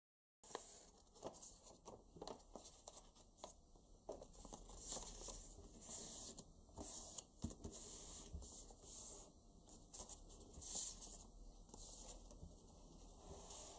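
A sheet of paper being folded and creased by hand: faint, irregular rustling and scraping with soft crinkles and clicks.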